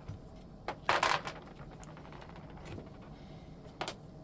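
Small metal parts clinking on a hard surface, most likely control knobs pulled off the amplifier's potentiometers and set down: a sharp click, then a short rattle about a second in, which is the loudest sound, and another single click near the end.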